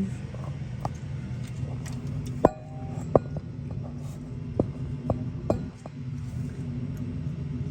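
Sheet-metal furnace parts clinking and knocking as they are handled and fitted: about six sharp metallic clinks, the loudest about two and a half seconds in with a brief ring, over a steady low hum.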